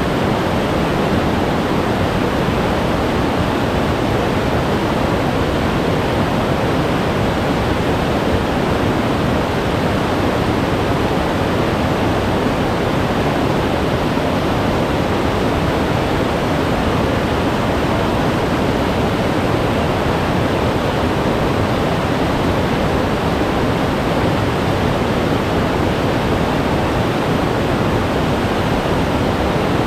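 Glacier-fed mountain stream rushing steadily, a dense, even roar of fast meltwater over rocks.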